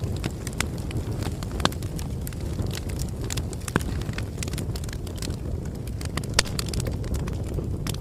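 Bonfire crackling: irregular sharp pops over a steady low rumble of burning.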